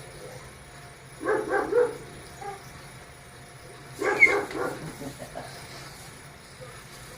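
A dog barking: a quick run of three barks about a second in, then another short cluster of barks about four seconds in.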